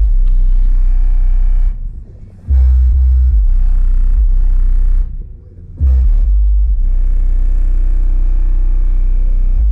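Loud, low vehicle engine rumble. It drops away sharply twice, a little under two seconds in and again about five seconds in, then comes back.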